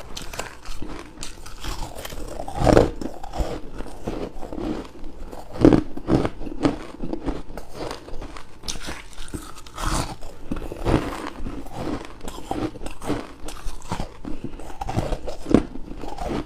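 Biting into crushed and shaved ice close to the microphone: repeated irregular crunches, with a few louder bites spaced a few seconds apart.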